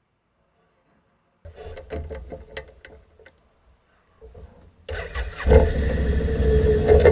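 Several clicks and knocks, then about five seconds in the 2008 Can-Am Outlander 800 Max XT ATV's Rotax V-twin engine starts and settles into a steady run.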